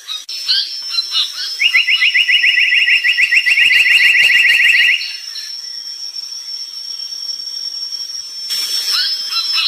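Brown tali pocong songbird calling: a few short chirps, then a long, fast, rattling trill of rapid repeated notes lasting about three seconds that stops abruptly, with a steady high thin tone underneath.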